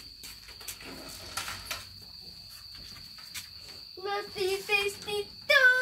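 Crickets chirping in a steady, unbroken high trill, with a few faint clicks about a second and a half in. A voice calls out in short sounds near the end, finishing on one longer held note.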